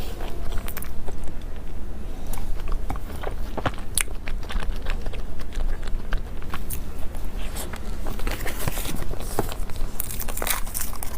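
Close-miked eating sounds: biting and chewing soft dessert, many small wet clicks that come thickest near the end, over a steady low hum.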